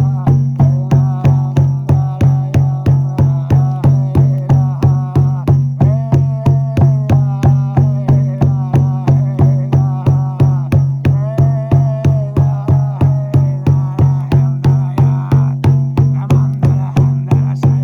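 Frame drum (buben) beaten in a steady, even rhythm of about three strikes a second, over a continuous low drone whose overtones slowly shift in pitch.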